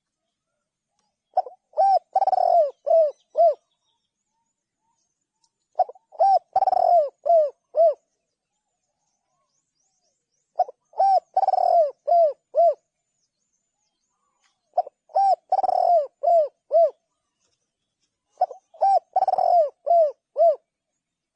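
Spotted dove cooing: five phrases of several coos each, one about every four seconds, with silence between them.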